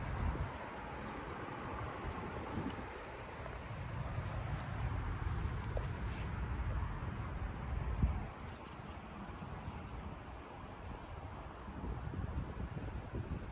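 An insect, likely a cricket, singing one steady high-pitched note, over a low uneven rumble.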